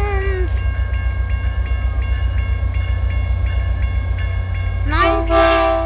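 Caltrain holiday train's cars rolling past close by: a steady heavy rumble with regular clicking of wheels at about three a second. A person's cry rises over it near the end.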